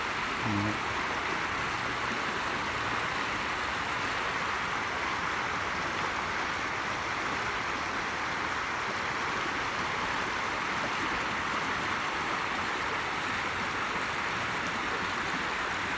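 Rushing water of a storm-swollen creek, a steady, unbroken rush.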